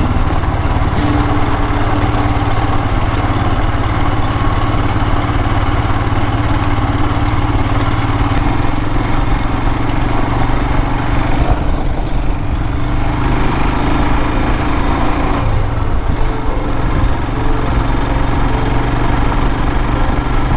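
Royal Enfield Himalayan's 411 cc single-cylinder engine running steadily under way, with wind and road noise. The engine note changes briefly twice, about twelve and sixteen seconds in.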